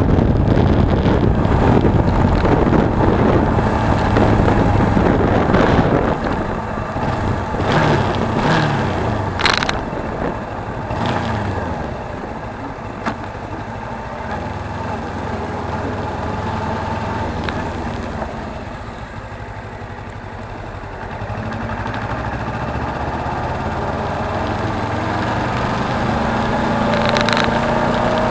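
Suzuki V-Strom 250 parallel-twin motorcycle engine running on the road with wind noise. Loud for the first several seconds, then the engine note falls and quietens as the bike slows. It builds again near the end as the bike speeds up.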